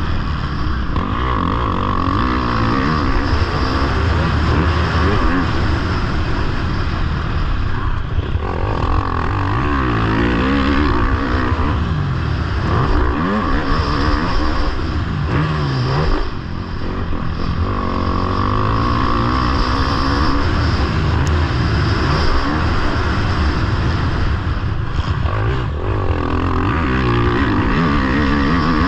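Motocross bike engine revving hard, its pitch rising and falling again and again as the rider opens and closes the throttle through the gears. It briefly backs off a little past halfway.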